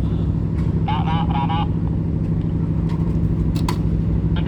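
A steady low engine drone from idling heavy vehicles and the ferry's machinery. About a second in, a vehicle horn gives three quick, wavering toots.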